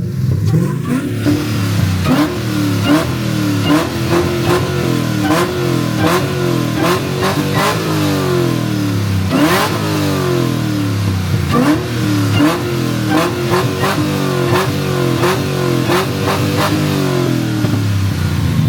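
Car engine revved again and again in quick throttle blips, about two a second, each rev rising and falling in pitch, with sharp cracks among them.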